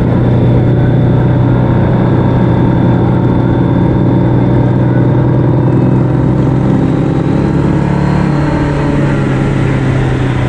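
A road vehicle's engine running steadily under way, a constant drone with a noisy rush over it and a slight change in engine note about eight seconds in.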